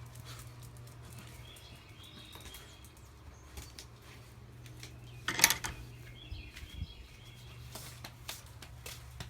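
Faint bird chirps over a steady low hum, with one sharp clack about halfway through.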